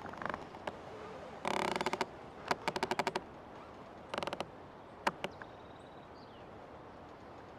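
Old tree creaking: a series of creaks, each a rapid run of clicks, coming one after another over the first five seconds, then fading to a faint steady hiss.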